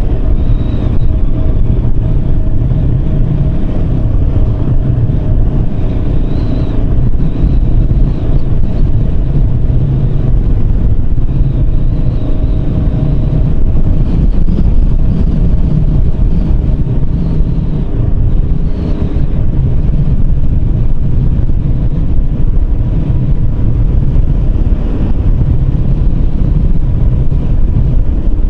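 Yamaha Serow 250's single-cylinder four-stroke engine running at a steady cruise while riding, with wind rushing over the microphone.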